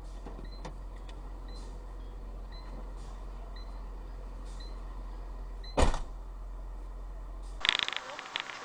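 Dashcam audio inside a car: a steady low hum with a faint tick about once a second, then a single sharp bang about six seconds in. Near the end the sound cuts abruptly to a different, louder recording with crackling noise.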